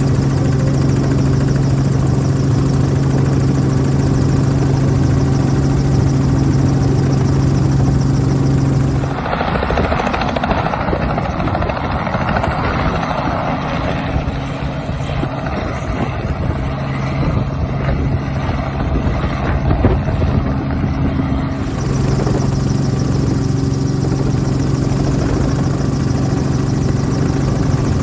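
Robinson R44 helicopter running, a steady low hum with a firm pitch. For about twelve seconds in the middle it gives way to a rougher, noisier rotor sound, then the steady hum returns.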